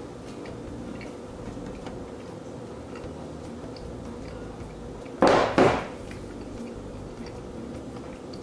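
A man chewing a mouthful of cake with his mouth closed, faint over quiet room tone with light ticks. About five seconds in come two loud, breathy exhales through the nose, a fraction of a second apart.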